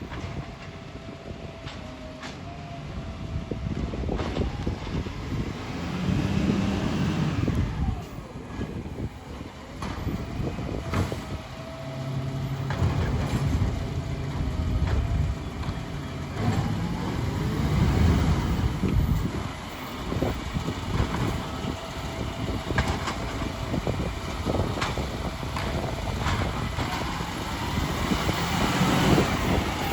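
Garbage truck on an organics collection run: its engine running and revving up several times, with scattered knocks and clatter and a faint steady whine.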